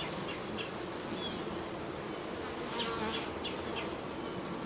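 Honeybees from an open hive buzzing: a steady, many-voiced hum of the colony around the beekeeper, swelling slightly about three seconds in.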